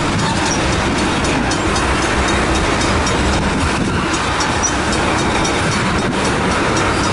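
Freight train of tank cars rolling steadily past, a dense, even noise of steel wheels running on the rails.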